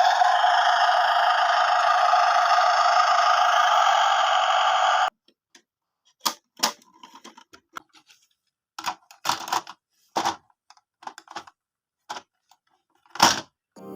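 A steady hiss for about five seconds that cuts off suddenly, then a few seconds of scattered small clicks and knocks.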